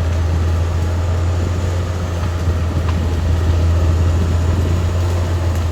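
Caterpillar D6R XL bulldozer's diesel engine running steadily with a deep, even drone.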